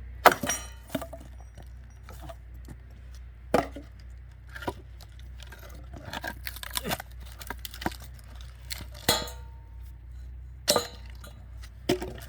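Wood-splitting work with an axe: several separate sharp knocks and clinks of the axe and split firewood pieces, the loudest just after the start, each with a brief ring.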